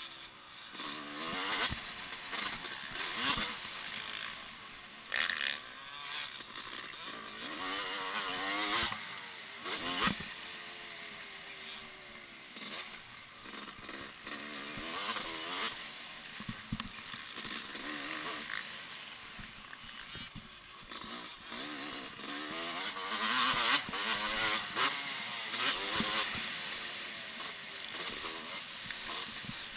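Motocross bike engines revving, their pitch rising and falling again and again, loudest a little past the middle.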